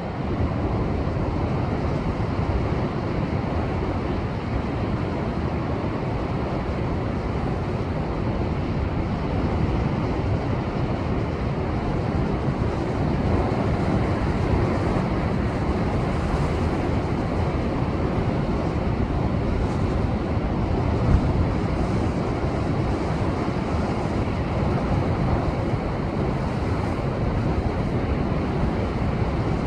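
Rough post-typhoon surf breaking against shore rocks: a continuous rush of waves, with wind buffeting the microphone.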